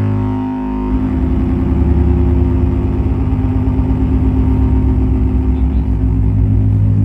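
Live electronic drone-noise music: a loud, sustained low drone that, about a second in, turns into a fast-pulsing, engine-like rumble under steady held tones.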